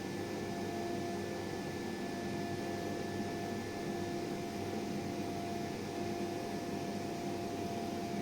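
Dental milling machine cutting a PMMA blank: a steady whirring hum with a constant whine through it, the whine breaking briefly about two seconds in.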